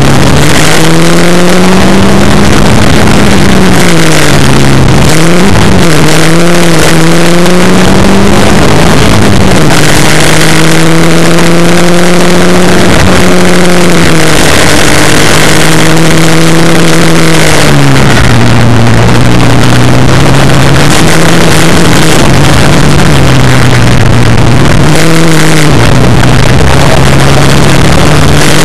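Škoda 120 S rally car's rear-mounted four-cylinder engine heard loud from inside the cabin, driven hard on a stage. The revs climb, hold and drop again and again through gear changes and lifts for corners, over a steady rush of wind and road noise.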